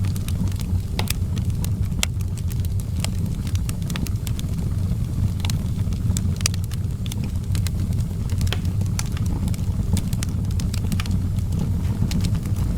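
Outdoor wood fire crackling: many sharp, irregular pops and snaps, several a second, over a steady low rumble.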